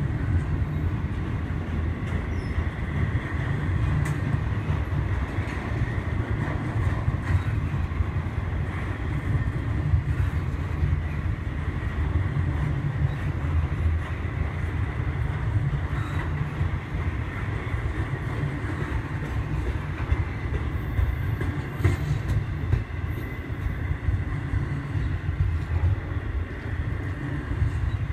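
Intermodal freight train cars loaded with truck trailers rolling past on the track: a steady low rumble of wheels on rail with a thin, steady high whine above it and a few faint clicks.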